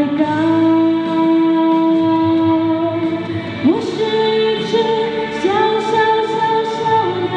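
A woman singing a Mandarin pop song over a backing track. She holds one long note for about three and a half seconds, then swoops up into higher held notes.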